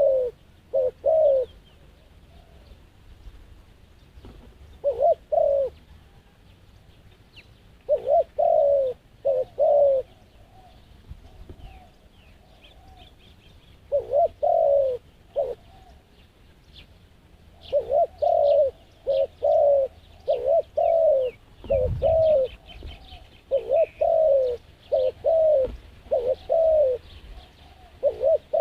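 Dove cooing in repeated short phrases of several low notes, with pauses between the groups and a long run of phrases in the second half. Small birds chirp faintly, and a single low thump comes about 22 seconds in.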